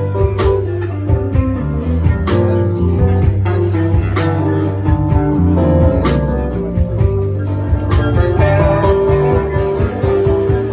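A live band playing an upbeat number: strummed guitar over a steady bass line with regular sharp beats.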